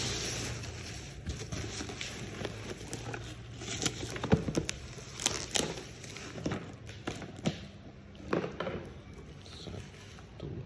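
Irregular clicks, taps and knocks of things being handled while unboxing PAR LED stage lights, the loudest about four seconds in.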